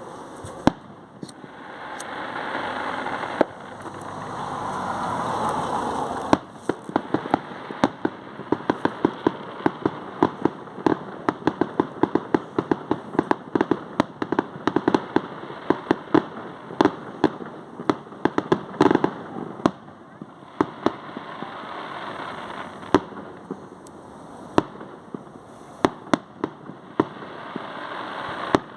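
Fireworks going off: a rapid run of sharp bangs and crackles over a steady hiss that swells in the first few seconds.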